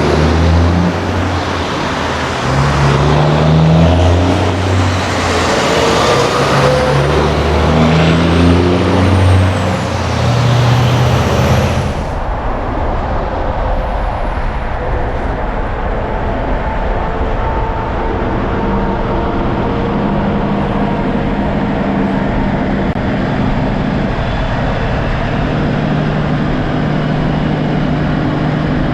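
Heavy truck's diesel engine pulling hard, its pitch climbing and dropping back in steps as it works through the gears. About twelve seconds in the sound changes suddenly to a steady, lower engine drone.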